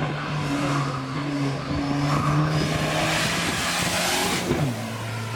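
Hillclimb race car engine running hard at high revs, with a rushing noise over it. About four and a half seconds in, the engine note slides down and settles lower.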